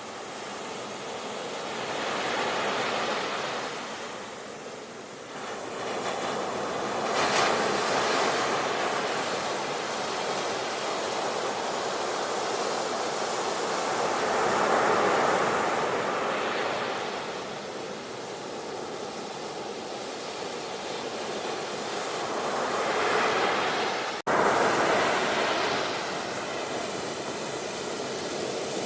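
Sea waves washing in and breaking, a continuous rush that swells and eases every few seconds. About 24 seconds in the sound cuts out for an instant and comes straight back.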